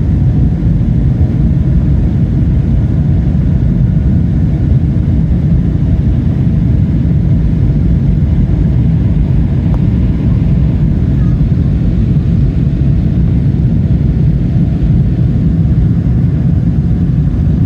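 Steady, loud low rumble inside the cabin of a Boeing 777-300ER, from its GE90-115B jet engines and the airflow around the fuselage.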